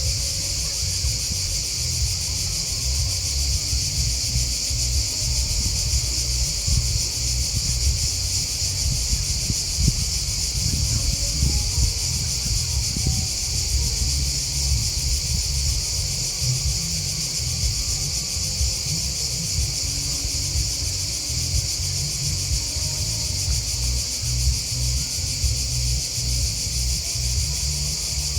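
A steady, unbroken chorus of grasshoppers and crickets chirping in a high, dense shimmer, over a constant low rumble.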